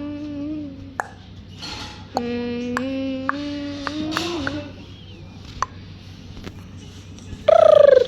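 A person humming two long held notes, with a few sharp clicks among them. Near the end comes a short, loud, high cry falling in pitch.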